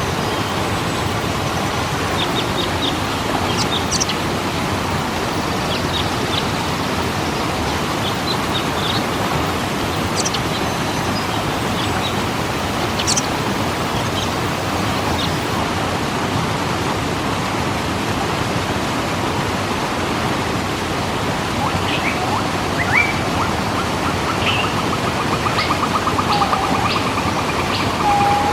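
Steady rushing of a waterfall, with small birds chirping now and then over it and a bird trilling and warbling near the end.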